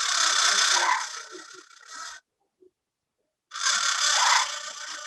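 A parrot screeching: two long screeches, each about two seconds, the second starting about three and a half seconds after the first.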